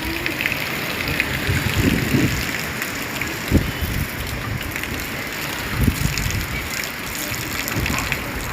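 Heavy hurricane rain falling steadily, with a few short low gusts of wind rumbling through.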